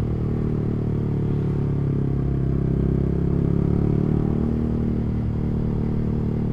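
Yamaha R15's single-cylinder engine running under way, a steady note with slight shifts in pitch.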